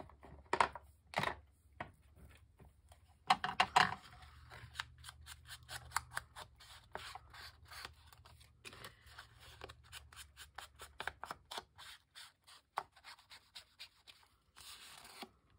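Scissors snipping through paper in a long run of quick small cuts, with a few louder snips in the first four seconds.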